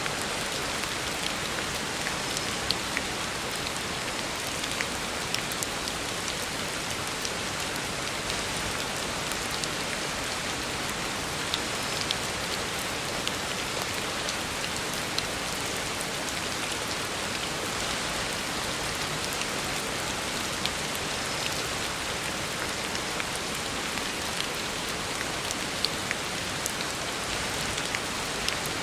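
Heavy rain falling steadily on a road, an even rushing hiss with scattered sharper drop ticks.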